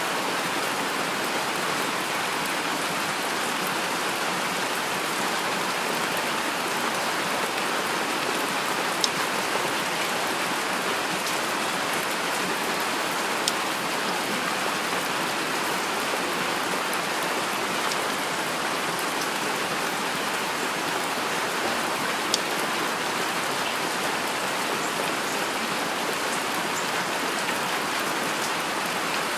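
Steady rain falling, an even wash of drops, with a few sharper single ticks standing out now and then.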